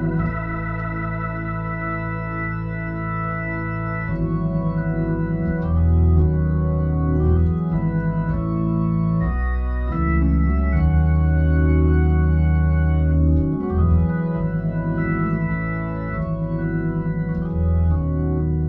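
Hammond A100 organ played through a Leslie 45 rotating speaker: slow, easy gospel 'talk music' in the key of E, with sustained chords that change every second or two over a deep bass line.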